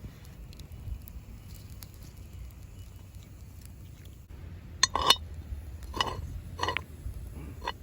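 Metal cooking utensils clinking against a skillet, about four sharp knocks in the second half, over a low steady rumble.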